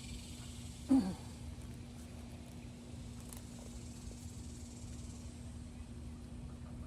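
Steady outdoor background of hiss and a low, even hum. About a second in, a person's voice makes one short sound that falls in pitch.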